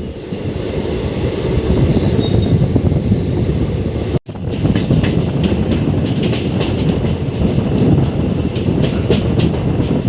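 Express train running at speed, heard from on board: a steady rumble with the wheels clattering over the rail joints, the clicks coming thicker in the second half. The sound drops out for an instant about four seconds in.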